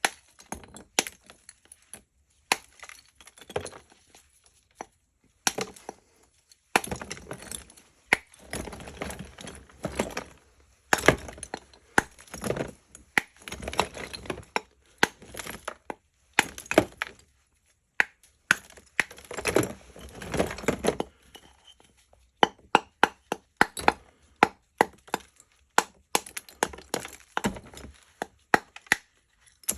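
Lumps of natural Barsuk chalk being broken apart: a long run of sharp snaps and cracks, with stretches of dense crumbling in the middle.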